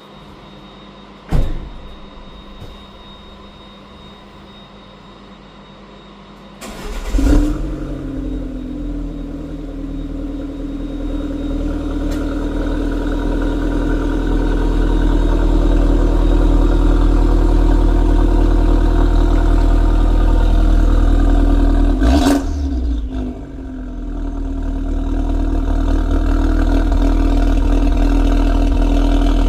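A sharp click about a second in, then a car engine cranks and starts about seven seconds in and runs through a de-catted exhaust with a Ragazzon centre pipe and Ragazzon back box and twin tailpipes. The engine grows louder, dips briefly about two-thirds of the way through, then builds again.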